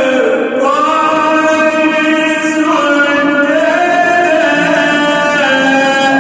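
A male reciter chanting the Quran in the melodic tajweed style, holding long drawn-out notes whose pitch shifts and glides up and down.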